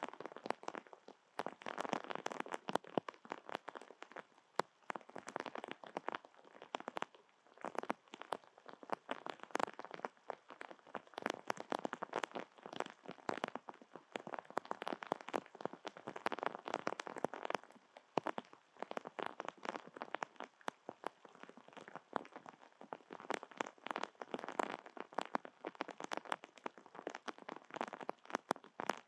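Rain falling, with raindrops striking a surface as a dense run of irregular sharp ticks over a hiss that swells and eases every few seconds.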